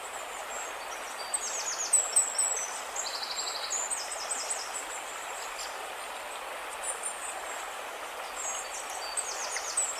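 A small songbird singing a high, quick phrase of chirps and trills, once early on and again near the end, over a steady background hiss.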